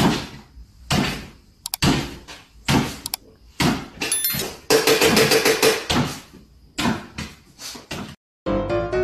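A series of loud knocks and bangs, about one or two a second, with a denser stretch of rattling midway through.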